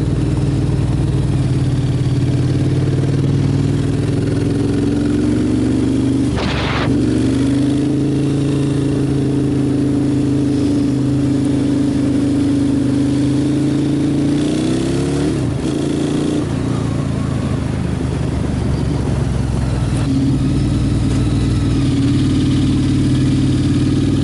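Motorcycle engine running steadily on the move, with wind rush. The note breaks briefly about six seconds in and dips and climbs again around fifteen seconds.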